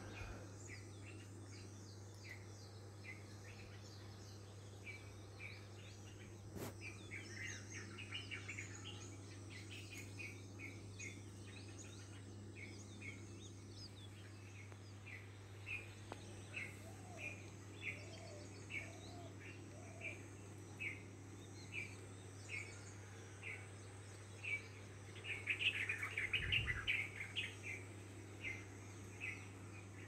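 Birds calling: one bird repeats a short high chirp at an even pace, about once a second, and a flurry of chirps from several birds comes about 25 seconds in, the loudest part, with a low thud under it. A steady low hum lies beneath.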